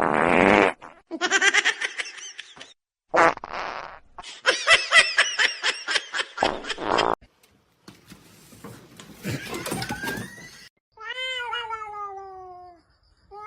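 Domestic cats meowing and yowling in a run of short separate bursts, ending with one long meow that falls in pitch.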